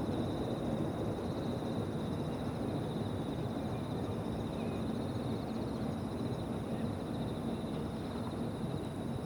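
Insects trilling steadily in a high, finely pulsing chorus, over the low, steady rumble of a distant jet airliner that slowly fades.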